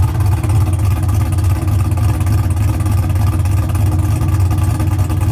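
Pickup truck's V8 engine running steadily with a strong low rumble.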